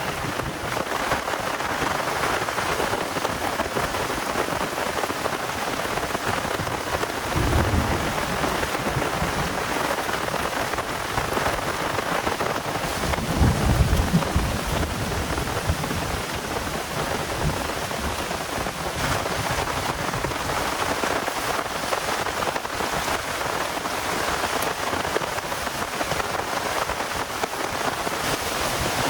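Heavy rain falling steadily, with low rumbles of thunder, one about seven seconds in and a stronger one around thirteen to fourteen seconds in.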